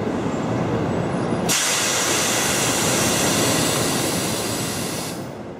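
Siemens Velaro-type CRH high-speed train standing at a platform: a steady low rumble, then about one and a half seconds in a loud hiss of released air starts suddenly and runs for about three and a half seconds before the sound fades out.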